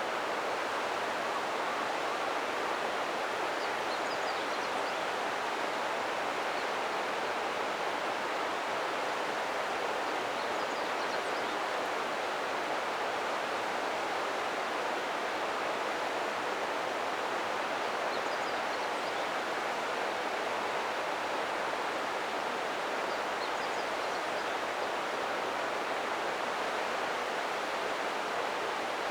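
River water rushing steadily over a rocky bed, an even, unbroken flow.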